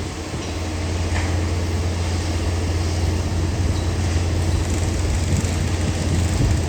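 Sydney Trains Waratah electric train pulling out of the platform, with a steady low hum from its drive and rumbling along the track, growing a little louder in the first second.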